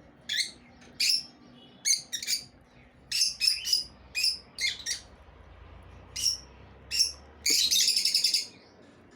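Lovebirds calling: a string of short, sharp, high-pitched chirps, some in quick pairs, then a loud burst of rapid chattering about a second long near the end.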